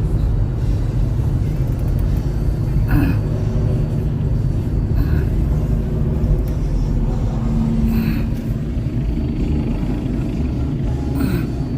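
Steady low rumble of a car driving along the road, engine and tyre noise, with a few brief knocks.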